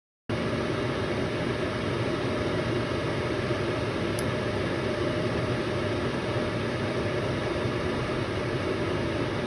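Vevor Chinese diesel air heater running steadily, its blower and burner giving an even rushing hum that cuts in just after the start. One faint short tick comes about four seconds in.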